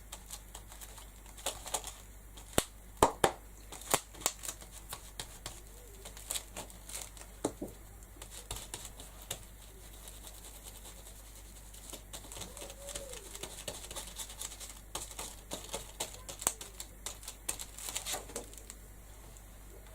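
Irregular taps and light scratching of an ink blending tool being dabbed on a Distress ink pad and worked over a stencil on paper, with a few sharper taps.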